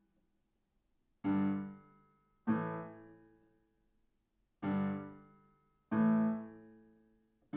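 Piano playing four slow struck notes or chords, each left to ring and fade, in two pairs about a second apart with a pause between the pairs.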